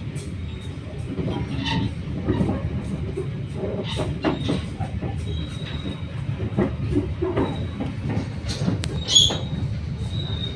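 Sri Tanjung passenger train rolling along the track into Surabaya Kota station: a steady low rumble with irregular clacks of the wheels over rail joints. A thin high wheel squeal comes and goes, with a sharper squeal about nine seconds in.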